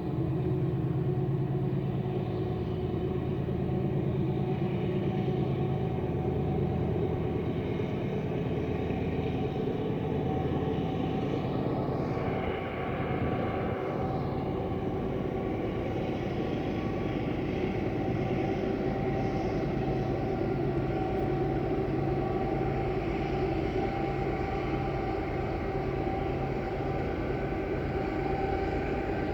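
Steady engine-like drone with several held tones over a low rumble, even in level throughout.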